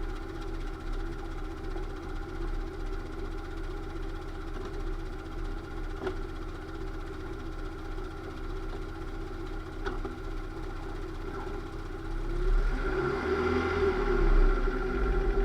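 Lada Niva running with a steady whine from the drivetrain, the abnormal transmission noise; about two-thirds of the way in it gets louder and its pitch rises and falls.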